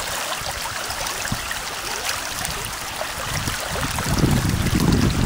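Steady rushing hiss of flowing floodwater. From about four seconds in, wind buffets the microphone with low rumbles.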